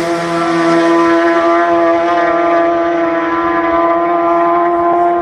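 Motorcycle engine held at steady high revs: one loud, even tone that barely changes in pitch.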